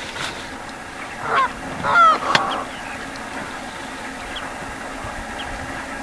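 A wild bird honking twice, goose-like, the second call louder, about a second in and again at two seconds, over a faint steady low hum, with a few short high chirps afterwards.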